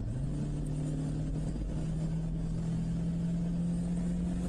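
Car engine running steadily, heard from inside the cabin. Its low hum steps up in pitch twice in the first second and a half, then holds level.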